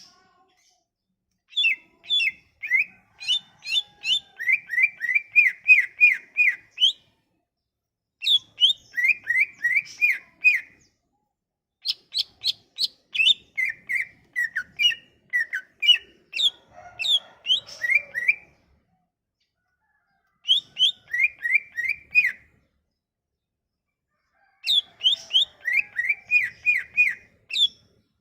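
Green leafbird (cucak ijo) song played as a lure: five bursts of rapid, clear whistled notes, each note dropping sharply in pitch. Each burst runs two to six seconds, and there is a short silence between bursts.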